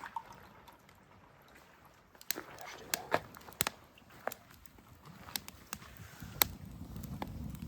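A scattering of sharp clicks and knocks from camp cooking gear being handled, then a low steady rumble from about five seconds in.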